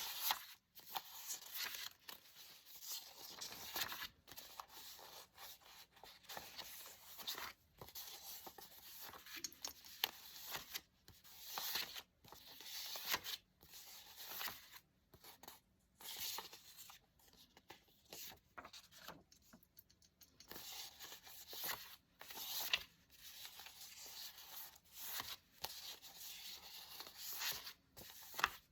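Paper being handled and torn in a run of short, irregular rips and rustles with brief pauses between them.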